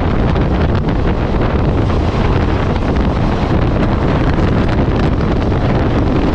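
Loud, steady rush of wind on the microphone over the rumble of a moving passenger train.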